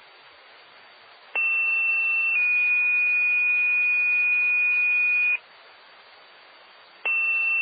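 Fire department two-tone sequential paging alert over a scanner radio, the tone-out that sets off volunteer firefighters' pagers: a short high tone for about a second stepping down to a slightly lower tone held about three seconds, with radio hiss before and after. Near the end, a second tone sequence begins.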